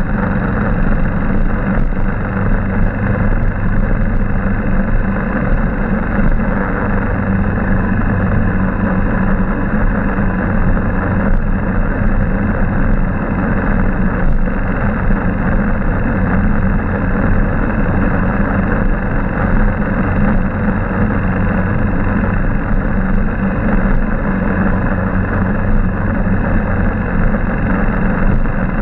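Motorbike engine running steadily, with the constant rushing noise of riding.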